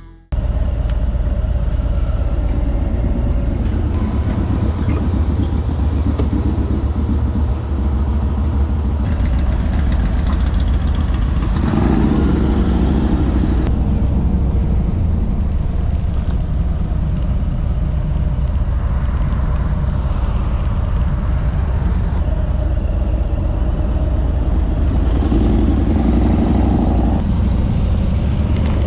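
Harley-Davidson Tri Glide trike's V-twin engine running steadily on the road, loud and continuous, with a couple of brief swells.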